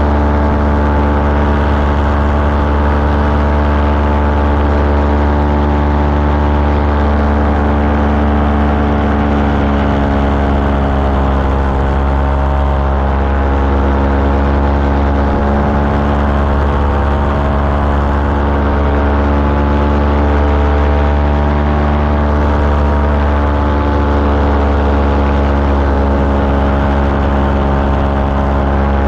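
Small aircraft engine and propeller running steadily at cruise power in flight, a loud, even drone holding nearly the same pitch throughout.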